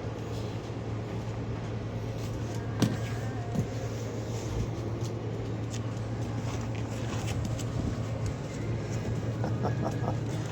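Steady low mechanical hum over a background hiss, with a single sharp click about three seconds in.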